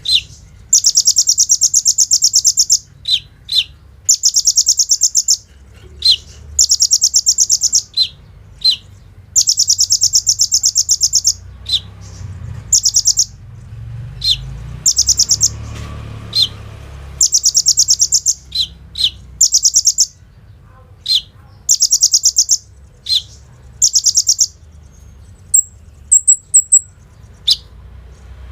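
Kolibri ninja sunbird singing in bursts of very fast, high, rattling trills lasting one to two seconds each, alternating with short single chirps.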